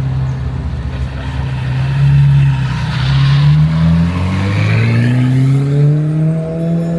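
A car engine running loudly close by, its pitch rising through the second half as it accelerates.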